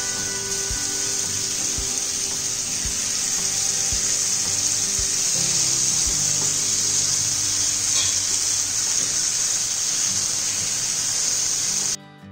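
Marinated paneer pieces sizzling steadily in hot oil in a nonstick frying pan while being turned with a spatula, with a few low knocks. The sizzle cuts off abruptly near the end.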